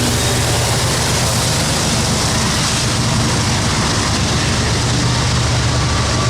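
Train rolling past at close range: a steady, loud rumble and rush of wheels on rail.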